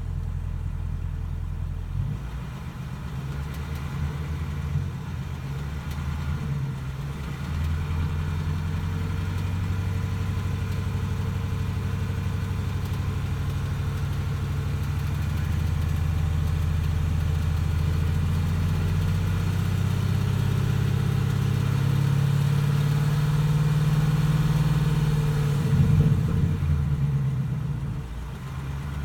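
Ford Mustang GT's 5.0 L V8 engine running, its pitch shifting up and down a few times. It has a rattle/tick noise that the owner is documenting and that the dealer has not diagnosed.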